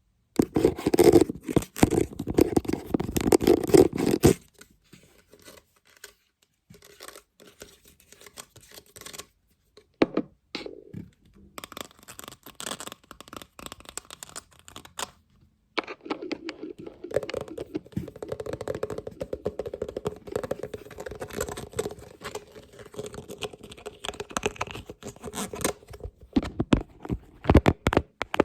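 Scratching and tapping on a lid: a loud spell of rapid scratching for about four seconds, then sparse quieter scrapes and taps, then a long stretch of steady scratching, ending in a few sharp taps.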